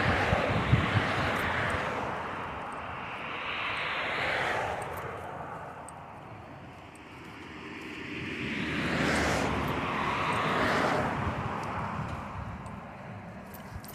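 Motor traffic passing on the road, each vehicle swelling up and fading away: one near the start, one about four seconds in, and a louder pass or two around nine to eleven seconds.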